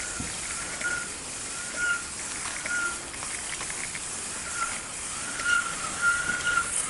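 Steady hiss of wind and tyres while cycling down a snowy road, with a short high squeak repeating about once a second.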